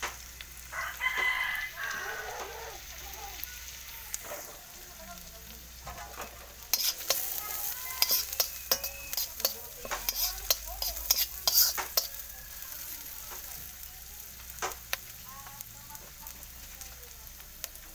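Ginger and onion sizzling in a hot wok, with a metal spoon stirring and scraping against the pan in a run of sharp clicks from about 7 to 12 seconds in. A rooster crows once about a second in.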